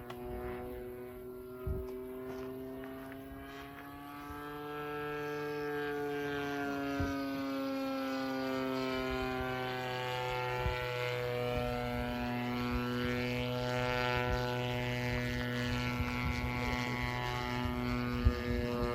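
DLE 30 single-cylinder two-stroke gasoline engine of a model aircraft running, with its propeller. Its pitch slowly rises and falls, and it gets louder about four seconds in.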